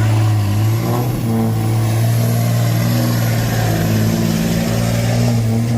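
Big diesel semi-truck engine running loud and steady under load, with a faint high whine above it.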